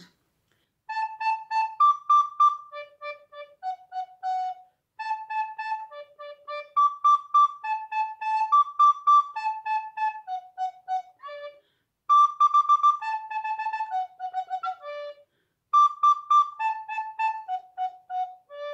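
Soprano recorder playing the notes of the D major chord (D, F sharp, A and top D) in shifting orders. The short tongued notes come in three phrases with brief pauses between them.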